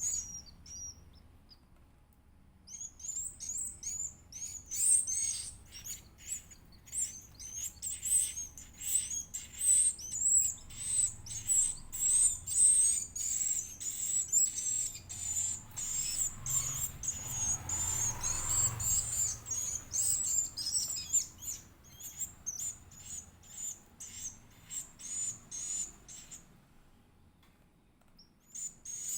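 Edible-nest swiftlet (Aerodramus fuciphagus) chick making begging calls while being fed: a fast run of thin, high chirps that starts a couple of seconds in and stops a few seconds before the end.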